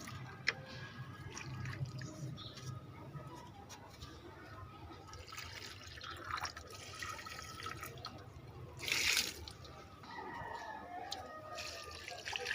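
Water being poured onto potted plants, splashing and dripping irregularly, with one louder splash about nine seconds in.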